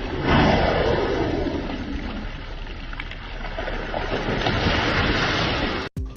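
Loud rushing water, swelling suddenly about a third of a second in and then rushing on steadily before cutting off abruptly just before the end.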